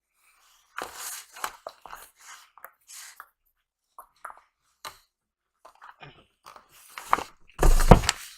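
Takeout food packaging handled close to the microphone: irregular crinkles and clicks, with a louder rustle and bump near the end.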